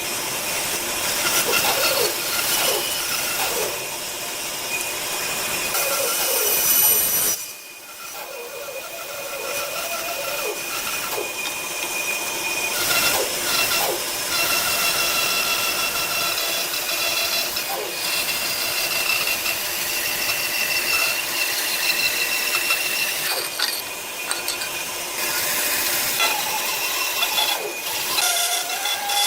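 Woodworking tools working wood: a steady power-tool whine mixed with scraping and rubbing of wood, breaking off briefly about seven seconds in before carrying on.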